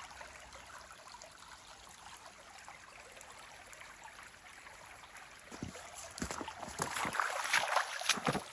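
A shallow stream trickling faintly and steadily. From about five seconds in, irregular crunching steps through snow come in and grow louder.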